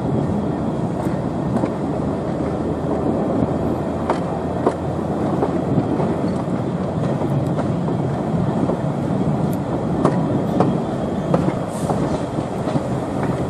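Train running along the track, heard from an open coach window: a steady rumble of wheels on rail with scattered sharp clicks at irregular intervals.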